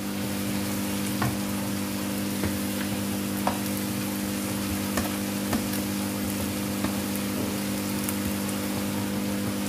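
Food sizzling steadily in a frying pan as cooked rice is tipped in from a plastic container, with a few light clicks and a steady low hum underneath.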